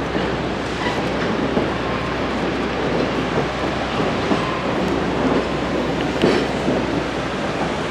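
Passenger train running along the track: a steady rumble with occasional faint clicks.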